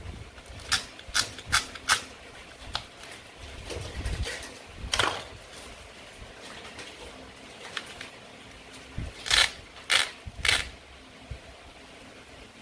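Toy play food being cut with a toy knife, making sharp clicks and taps: four quick ones in the first two seconds, a longer one about halfway through, and three louder ones near the end.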